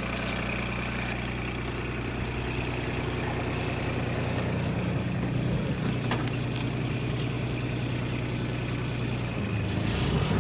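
An engine running steadily at a constant speed, a low even hum that grows louder near the end.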